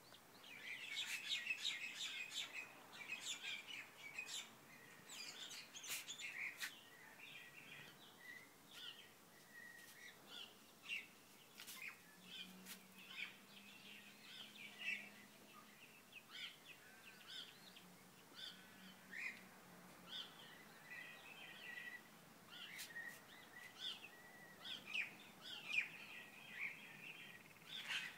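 Small birds chirping, faint: many short high calls throughout, busiest in the first few seconds.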